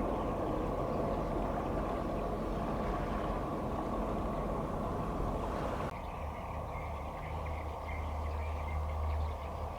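Steady low rumble of a passing container ship with wind and water noise. About six seconds in, the sound changes abruptly to a deeper, steadier engine drone.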